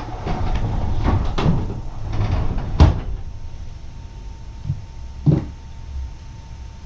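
Handling noise: rustling and clattering of things being moved, with a sharp knock just under three seconds in and another knock a little after five seconds.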